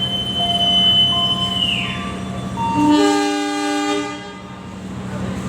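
A train at a station: a locomotive's low steady rumble, a thin high squeal that falls away just under two seconds in, then one horn blast about a second long.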